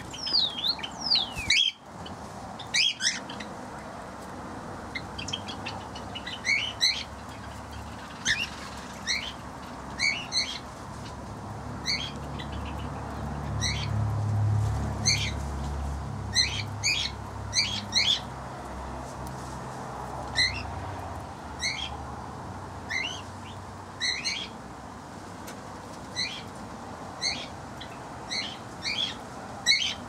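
Aviary birds chirping: many short, high calls repeated every second or so, some sliding up and some down in pitch, with a low rumble in the middle.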